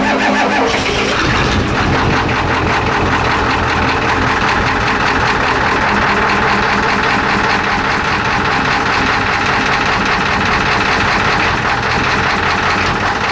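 Ford 7.3 L IDI V8 diesel in a 1989 F250, just cold-started at about 21°F with no block heater. About a second and a half in the sound of its starting gives way to a steady diesel clatter as it settles into its idle.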